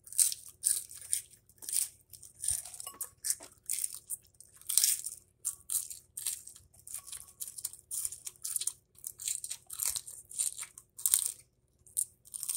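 Raw lettuce leaves being bitten and chewed up close: a steady run of crisp, wet crunches, about one to two a second.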